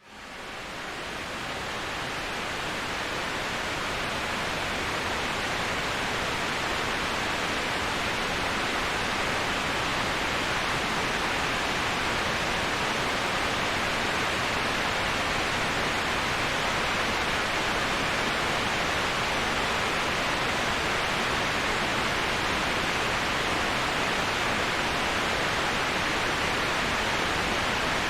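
Waterfall rushing, an even, steady roar of falling water that fades up from silence over the first few seconds and then holds constant.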